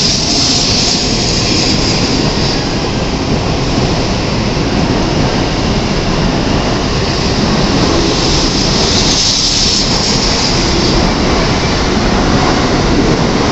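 Shinkansen train pulling out of the platform, its cars rolling past in a steady loud rush of wheel, motor and air noise, with a high hiss that swells near the start and again about two-thirds of the way through.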